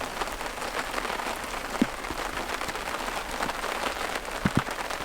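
Steady rain pattering (滴滴答答), a dense fall of small drops, with a few louder ticks about two seconds in and again near the end.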